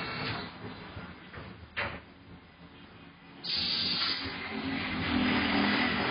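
A single sharp knock, then about halfway through a sudden steady hiss of compressed air that keeps going, a low hum joining it near the end.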